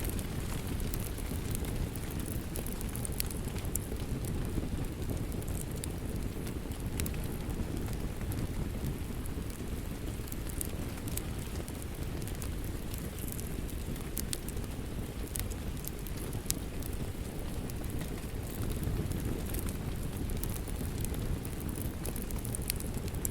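Steady rain mixed with a crackling wood fire: a continuous low rumble and hiss with frequent scattered sharp crackles and pops.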